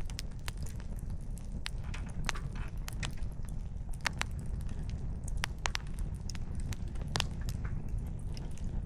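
Campfire: burning firewood crackling and popping in sharp, irregular snaps over a low steady rumble.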